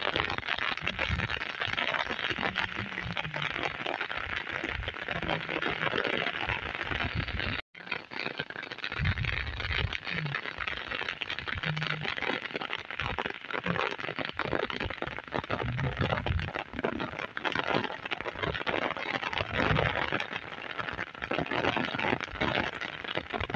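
Heavy rain falling, a dense steady hiss with crackling patter, with irregular low rumbles now and then. The sound drops out for a moment about eight seconds in.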